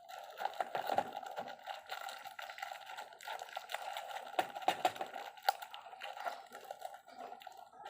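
Irregular light clicking and tapping of metal engine parts being handled, as bearing shells are fitted during engine assembly.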